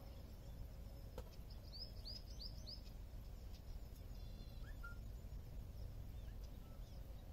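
Small birds calling faintly over a low steady outdoor rumble: a quick run of about five high chirps about two seconds in, then a few scattered short calls and whistles.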